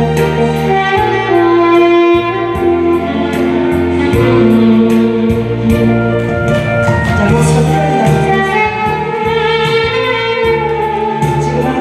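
Saxophone playing a held, sustained melody over a backing accompaniment with a steady drum beat.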